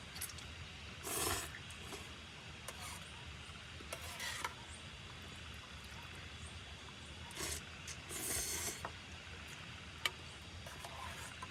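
A few short scraping strokes, each under a second, and one sharp click near the end, over a steady low rumble.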